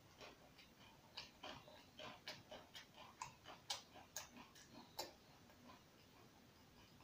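Faint chewing and lip-smacking of a person eating by hand: a run of irregular soft clicks that stops about five seconds in.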